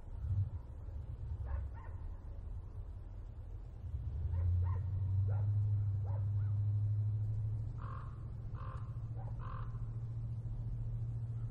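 Rural ambience: birds calling and dogs barking in the background, with three louder harsh bird calls about eight seconds in. A low steady rumble runs underneath and swells from about four seconds on.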